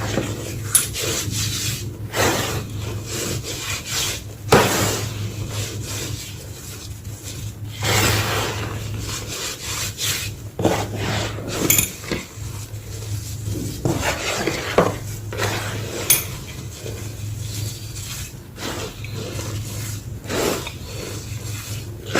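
Small block of gym chalk being crushed and crumbled, with irregular crunches and gritty rubbing. A low steady hum runs underneath.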